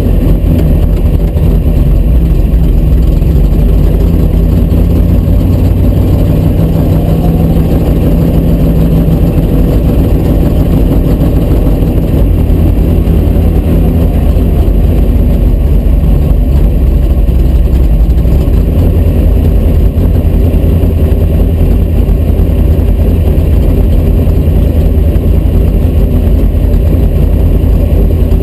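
1972 Dodge Dart drag car's engine running loud and steady at low revs, heard from inside the stripped cabin.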